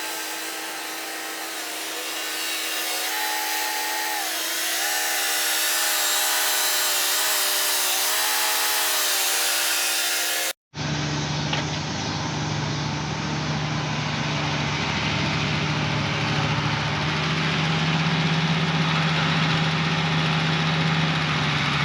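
Engines of farm machinery running during hay loading. First comes a whining engine note that steps up and down in pitch. After a sudden cut about halfway through, a steadier, deeper engine runs.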